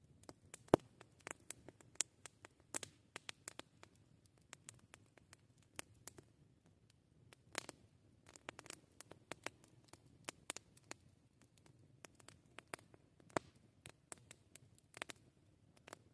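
Wood campfire crackling: irregular sharp pops and snaps of varying loudness over a faint low rush from the flames, with the loudest pop about a second in.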